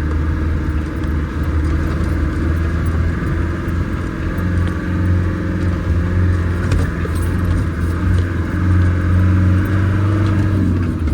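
1995 Land Rover Defender 130 driving off-road, its engine running steadily under load with light rattles from the vehicle. The engine note shifts down slightly near the end.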